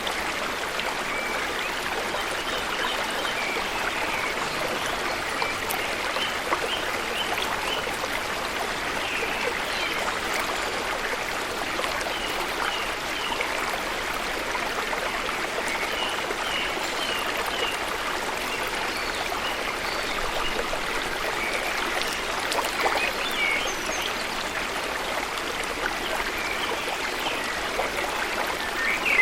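Steady rush of flowing water from the falls and stream, with short high chirps scattered through it.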